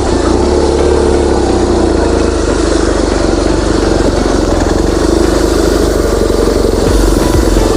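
BMW R1200GS boxer-twin engine running at idle, steady throughout, with a change in its low rumble near the end.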